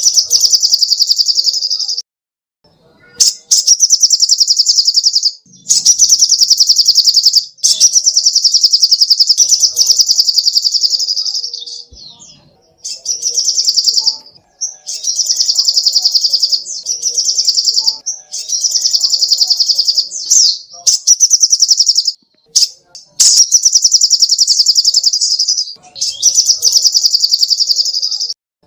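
Sogok ontong bird singing: loud, very rapid high-pitched trilled phrases, each lasting one to three seconds, repeated with short pauses between them.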